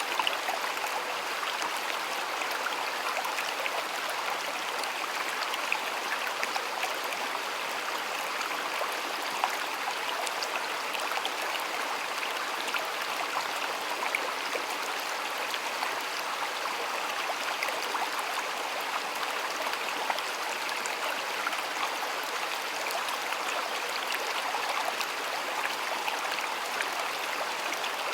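Shallow stream flowing steadily, a constant rush of running water with many small splashes and drips.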